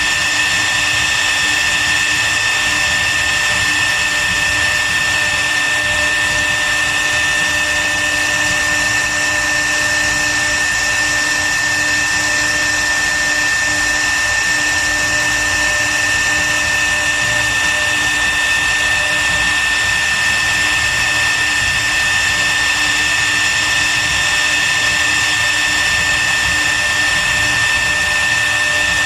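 CNC wood router spindle running steadily: a constant high whine over an even mechanical noise.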